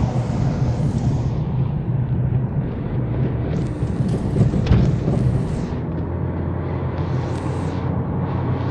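Car driving: a steady low rumble of engine and road noise, with a single knock about five seconds in.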